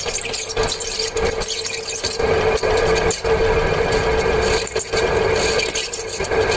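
Ceiling fan running with a loud rough grinding rattle ('ghar-ghar') and a steady squealing tone from its motor bearing. The repairer traces the noise to a jammed upper ball bearing with broken balls.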